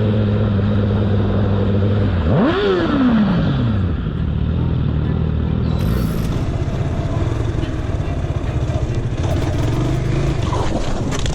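Motorcycle engine running at a steady pitch, then blipped once about two seconds in, the pitch rising quickly and falling back; after that it gives way to a rougher, noisier engine and road sound.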